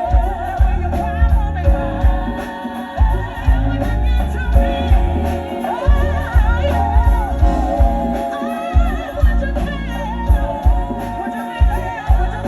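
Live soul/gospel-style music: a woman singing a wavering, ornamented melody over a band with a steady beat.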